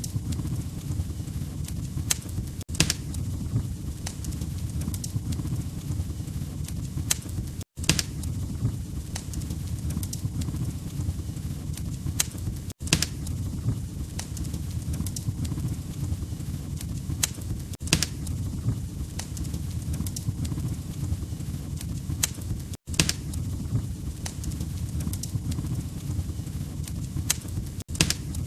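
Log fire crackling: a steady low rumble of burning with frequent sharp pops and snaps. The sound cuts out for an instant about every five seconds.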